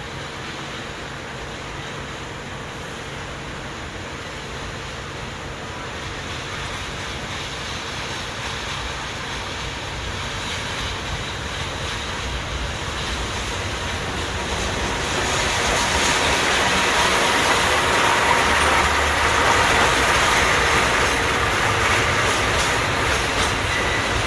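Freight train passing through a station: the rumble and clatter of its wheels on the rails, growing louder about fifteen seconds in.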